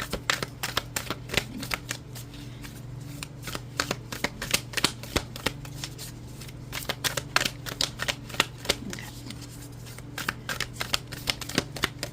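A deck of oracle cards being shuffled by hand: runs of quick, crisp card flicks with short pauses between them.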